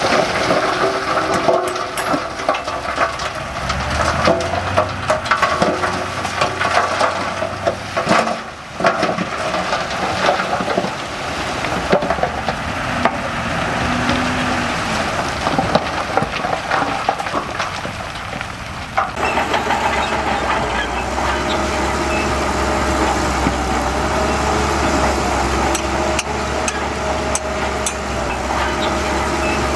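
Heavy diesel earthmoving machinery at work, with crackling and clattering of soil and rock. About two-thirds of the way in, the sound changes abruptly to a steady diesel engine running.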